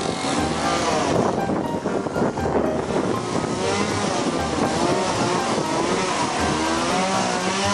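Taiwan Railways EMU800 electric commuter train pulling out of a platform and gathering speed as its cars pass close by. Its running noise grows thicker from about three seconds in.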